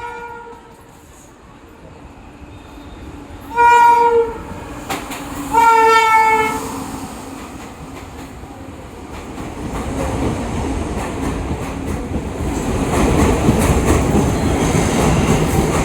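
Train horn sounding two blasts, about four and six seconds in, after the tail of an earlier blast at the very start. From about ten seconds on, the rumble of a train running on the rails grows louder and stays loud.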